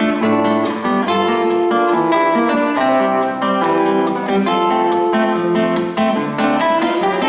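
Acoustic guitar played alone in an instrumental break of a bard song, notes plucked and strummed in a quick even rhythm.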